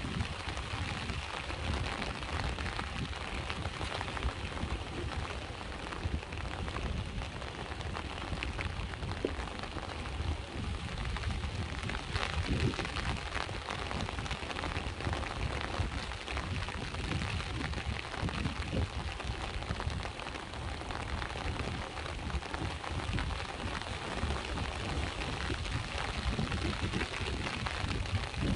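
Steady rain falling, many fine drop ticks over an even hiss, with the low rumble of sea waves underneath.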